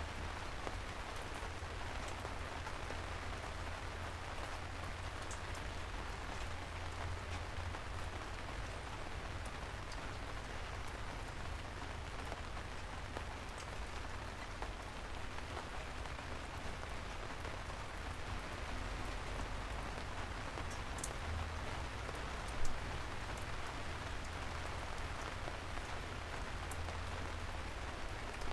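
Steady rain falling on a surface, with scattered individual drop ticks and a low rumble beneath. One brief thump stands out about three quarters of the way through.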